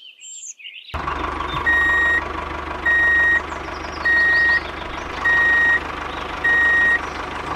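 Vehicle reversing alarm beeping five times at a steady pace, each beep about half a second long, over a running engine; the sound starts abruptly about a second in.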